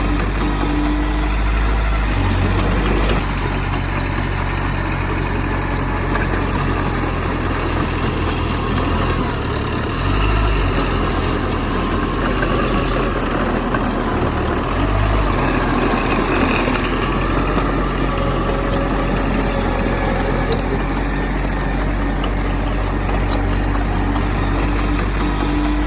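Heavy earthmoving machine's diesel engine running continuously, its low note shifting a few times.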